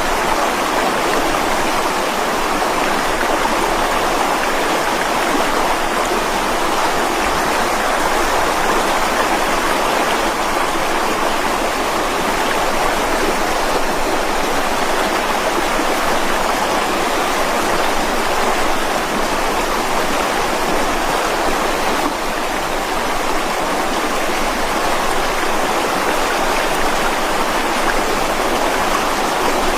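Mountain river rushing and splashing over rocks, a steady, even roar of water.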